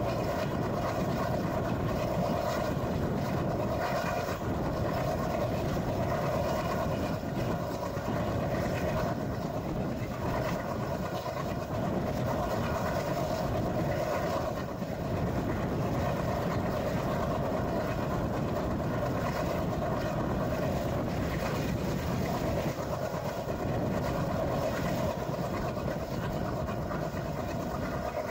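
Express passenger train running steadily, its continuous wheel-and-rail noise heard from on board.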